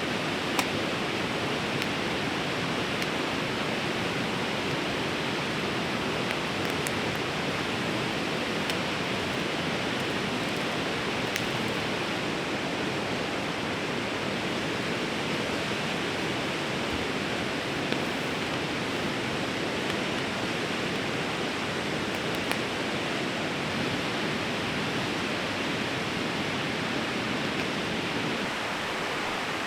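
Steady rushing of a fast-flowing river, even and unbroken, with a few faint sharp ticks scattered through it.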